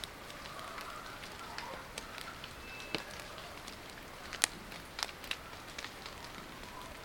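Wood campfire crackling, with scattered sharp pops over a steady hiss of rain, the loudest pop about halfway through.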